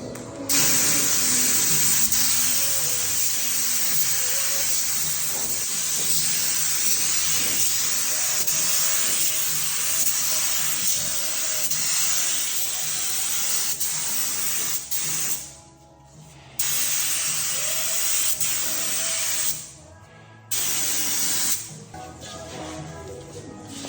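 Spray painting: a continuous spray hiss that stops briefly twice, over background music.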